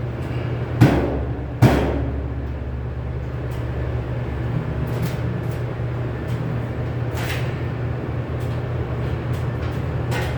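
Knocks and taps from sheet metal work: two sharp knocks near the start, then scattered lighter taps, over a steady low hum.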